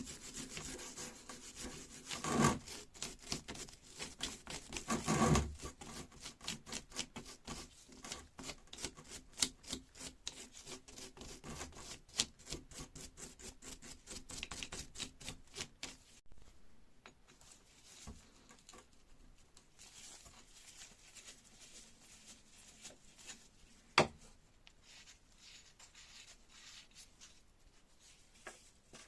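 Rapid, repeated rubbing strokes, dense and fairly loud for the first half, then sparser and quieter. One sharp knock comes about five seconds before the end.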